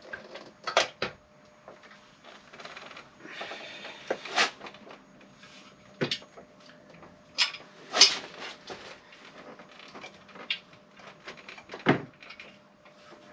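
Metal engine parts and hand tools clunking and clicking as a removed part is set back in place on an engine during reassembly: about a dozen separate knocks at irregular intervals, the loudest about 8 seconds in, with handling rustle between them.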